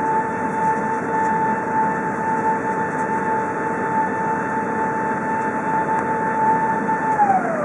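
Airbus A380's Rolls-Royce Trent 900 jet engines whining steadily at idle, heard from the passenger cabin. Near the end the whine begins to fall in pitch as the engines spool down at shutdown.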